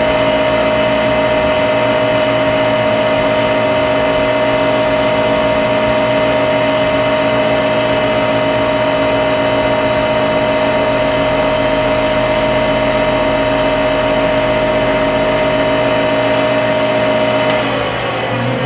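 Wood lathe running at steady speed with a constant motor whine while carnauba wax is buffed onto a spinning pen blank. The whine stops near the end.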